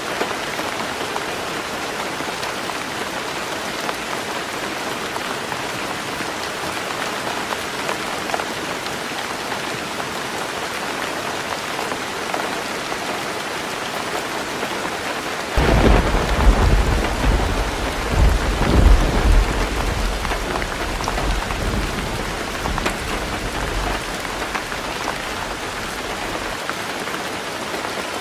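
Heavy rain falling steadily on a roof. About halfway through, thunder breaks in suddenly with a deep rumble that swells twice and fades over several seconds.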